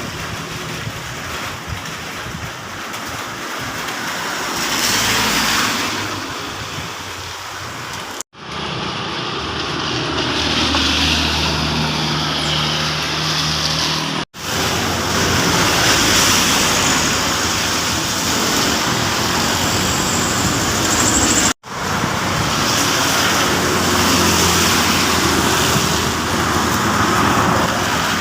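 Heavy rain and road traffic on a wet road, a steady wash of rain noise and tyre spray. In the middle stretch a vehicle engine's low hum sounds under the spray. The sound cuts off sharply three times.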